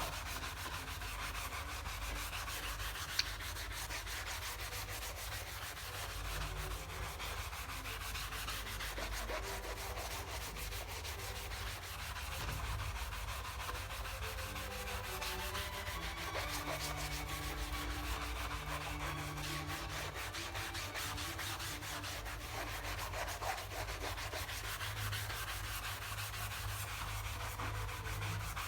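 Steady, rapid scrubbing of a soapy fabric mouse pad, a wet, scratchy rubbing made of many quick strokes.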